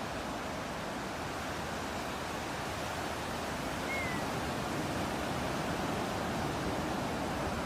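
Steady rushing of ocean surf and breeze. About four seconds in, a single short, high bird chirp that dips slightly in pitch.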